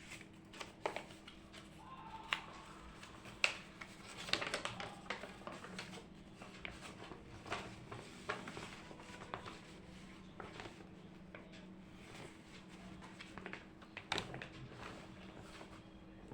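Scattered light taps, clicks and rustles of small objects being handled, over a steady low hum.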